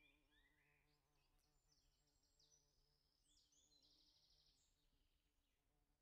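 Near silence, with faint birds chirping in short high notes and a brief rapid trill about halfway through.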